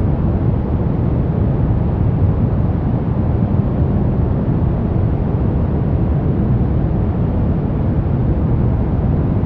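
Continuous noise track for sleep and relaxation, steady and unchanging, weighted toward the low end so it sounds deep and rushing rather than hissy.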